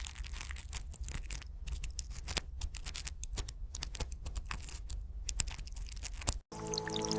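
Dense, irregular crackling and scratching clicks over a low rumble, like something rustling through dry litter. It cuts off about six seconds in, and soft music with sustained tones begins.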